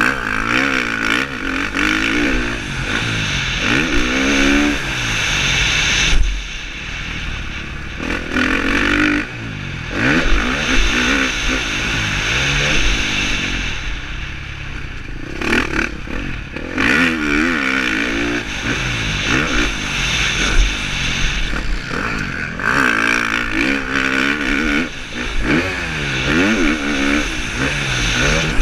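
KTM 350 SX-F's single-cylinder four-stroke engine revving up and down again and again under race throttle, with several brief drops in level where the throttle is closed, over a steady rushing noise and rattle from the bike.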